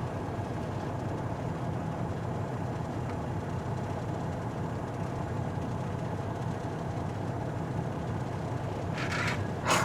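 Semi truck's diesel engine running steadily from inside the cab as the truck pulls away in a low gear. A brief burst of noise near the end.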